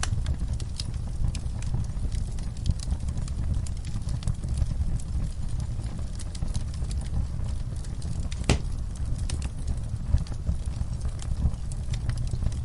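Fireplace fire crackling: frequent small irregular pops over a steady low rumble, with one sharper pop about eight and a half seconds in.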